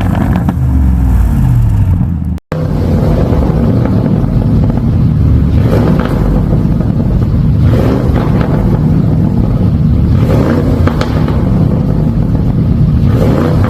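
Lamborghini Urus S twin-turbo V8 revved repeatedly through a tuned exhaust, reworked mid-pipe and valve module, the revs rising and falling. The sound cuts out for an instant about two and a half seconds in.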